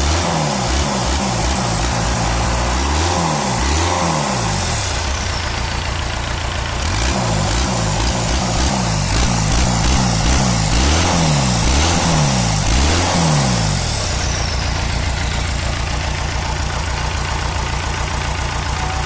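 Combine harvester engine revved up and down over and over, about once a second, then settling to a steady idle about 14 seconds in.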